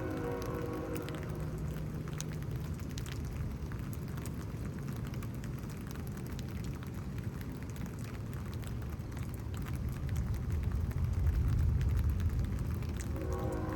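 Steady rain falling, with scattered drops ticking close by and a low rumble underneath that grows louder about ten seconds in.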